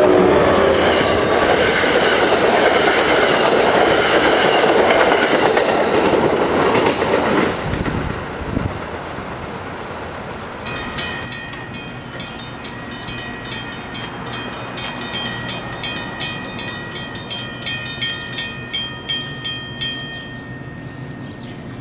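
NJ Transit commuter train passing close by, its wheels and locomotive loud for the first several seconds and then dying away. About halfway through, a grade-crossing warning bell starts ringing with rapid, evenly spaced strikes, and stops shortly before the end.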